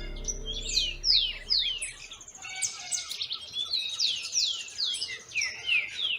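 Several birds chirping and calling at once, with many quick falling notes overlapping. Soft background music fades out in the first two seconds.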